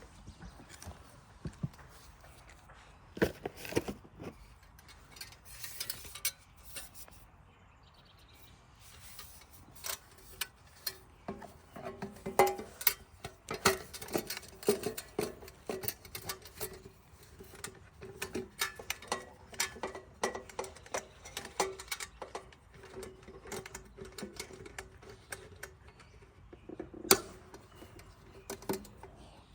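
Irregular clicks and knocks, as of small hard objects being handled, with a faint steady hum from about eleven seconds in.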